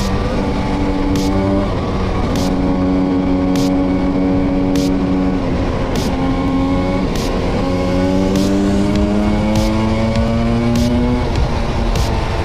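Vespa V50 two-stroke scooter engine heard from on board while riding. Its pitch climbs steadily under throttle and drops sharply a few times, about 2, 6 and 11 seconds in, as the rider shifts or eases off. A steady low wind rumble lies under it, and a thin tick comes about once a second.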